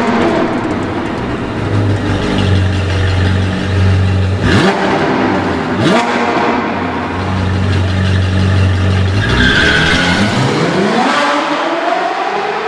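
Sports car engine sound effect: the engine runs with a steady hum and revs up sharply twice in the middle. Near the end it rises in a long, sweeping glide.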